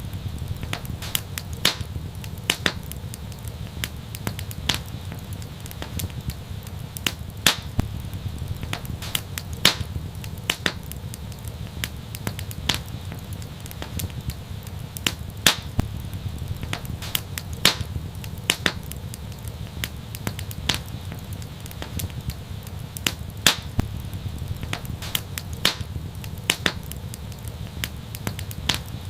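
Wood fire burning with irregular sharp crackles and pops, several a second at times, over a steady low rumble of flames.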